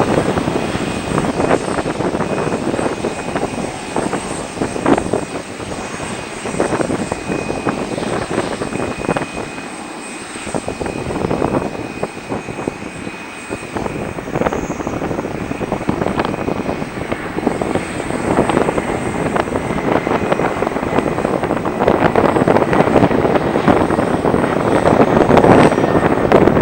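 Jet airliner engines passing, a loud steady rushing noise with a thin high whine, easing off in the middle and growing louder near the end.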